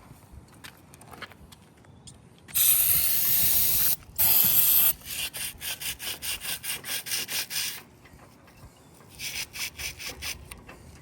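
Two hissing bursts of spray, the first about a second and a half long and the second shorter, against a Chrysler 383 cast-iron engine block. They are followed by quick scrubbing strokes of a brush, about five a second, and a second short run of strokes near the end.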